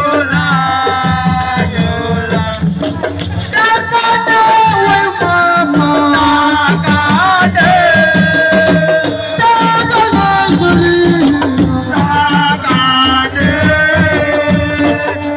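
Live assiko band music: steady hand-drum percussion and rattles under a gliding melodic lead line.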